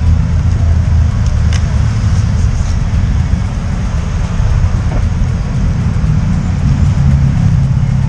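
Motorcycle taxi riding in traffic: a steady low engine and road rumble, with the engine note rising and becoming clearer near the end.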